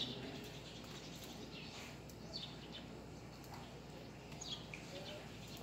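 Small birds chirping: a few short, high, downward chirps a couple of seconds apart over faint steady outdoor background noise.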